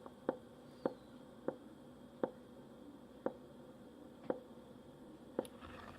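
Last drops from a Toastess one-cup mini coffee maker falling into the cup as the brew finishes. About seven separate drips, with the gaps between them growing longer.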